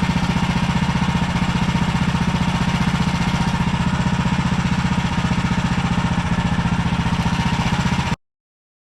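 Small gasoline engine running steadily with a rapid, even pulse, cutting off abruptly near the end.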